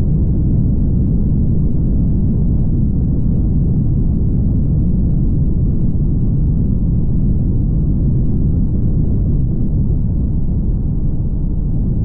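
Steady low road rumble of a car driving on a highway, with no high-pitched sounds over it.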